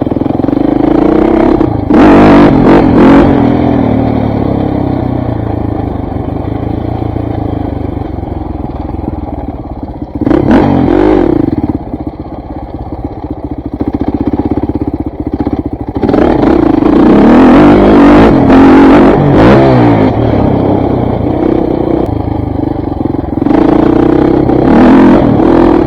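KTM 400 MXC dirt bike's four-stroke single-cylinder engine being ridden. The throttle is opened hard about two seconds in, again around ten seconds, in a long pull from about sixteen to twenty seconds and once more near the end, easing off to a lower drone between.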